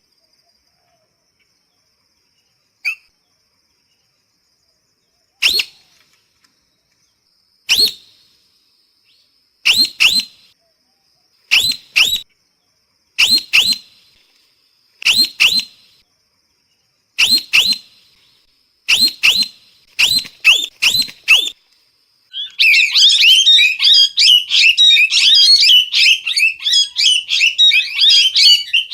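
Parrot calling: sharp, loud single calls, then doubled calls every second or two that come faster, breaking about three-quarters of the way in into a dense, continuous chatter of rapid chirps.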